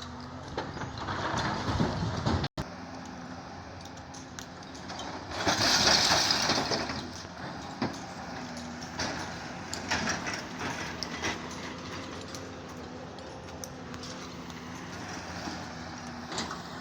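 Heavy diesel engine of a quarry excavator running steadily, with two loud rushing, clattering swells, the first about a second in and the second around the sixth second. The sound drops out for an instant between them.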